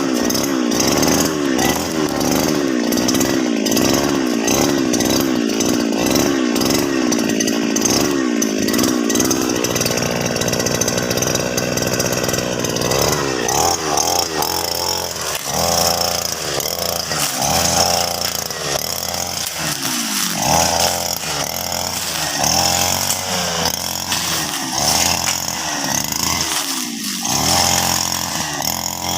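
Petrol brush cutter cutting grass. For the first ten seconds or so the engine runs at high speed with a wavering pitch. From about halfway through it runs lower and revs up and down in repeated surges every second or two.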